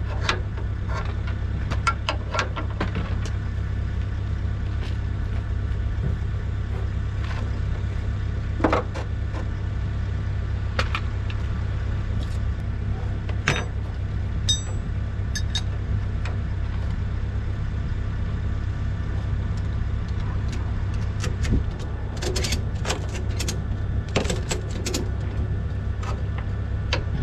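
Diesel engine running steadily, with scattered short metallic clicks and knocks over it.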